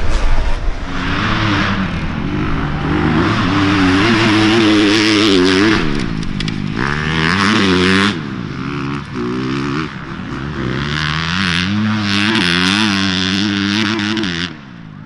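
Dirt bikes racing past at close range, their engines revving up and falling back again and again as they shift through gears. The engine noise cuts off sharply near the end.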